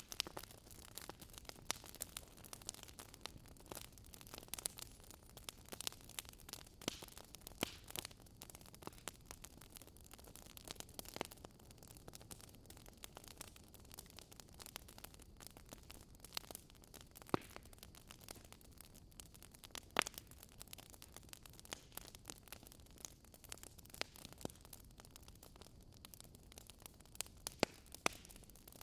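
Wood campfire crackling: irregular sharp snaps and pops, a few louder ones standing out, over a faint steady rush from the flowing river beside it.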